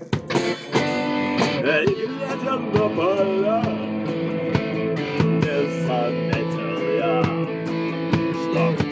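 Rock band playing an instrumental passage: electric guitar over a steady drum beat, the guitar's notes gliding up and down.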